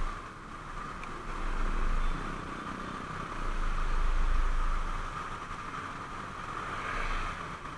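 Motorcycle on the move: steady engine and road noise, with wind rumbling on the microphone in swells about two and four seconds in.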